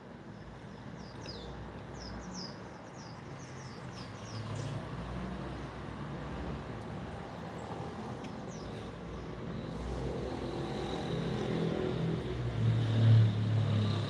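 Small birds chirping in a quick run of short, falling notes for the first few seconds and again briefly near the middle, over the hum of a passing road vehicle that grows louder toward the end.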